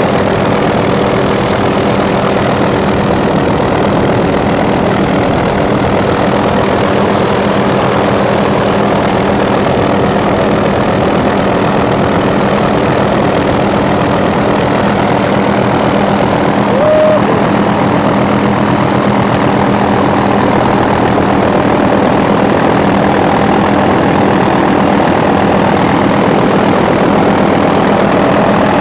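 A steady engine drone, holding one pitch throughout, with a brief higher note a little past halfway.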